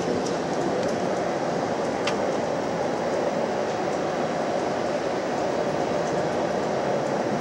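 Steady rushing air noise of the parked aircraft's cabin ventilation, with a faint click about two seconds in.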